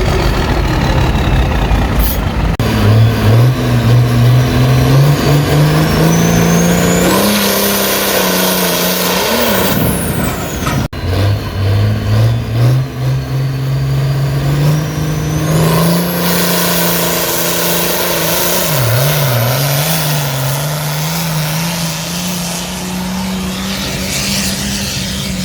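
A pulling vehicle's engine under full load during a sled pull: its pitch climbs and then holds, with a high whine rising over it. It breaks off suddenly about 11 seconds in, and a second run starts the same way.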